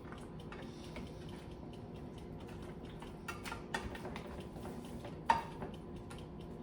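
Light kitchen clatter: scattered clicks and clinks of dishes and utensils, with one sharper clink about five seconds in, over a steady low hum.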